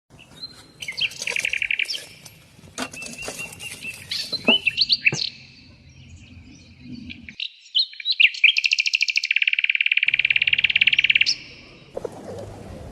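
Songbirds singing: a short trill, scattered chirps, then a long rapid trill lasting about three seconds near the end.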